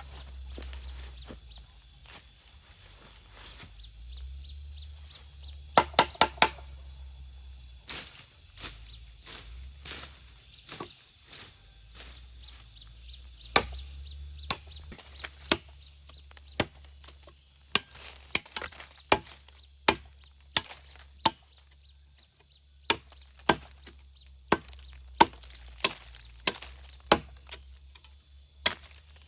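Chopping strikes on wood: a quick run of four blows about six seconds in, then single sharp blows every half second to a second through the second half, over a steady high drone of insects.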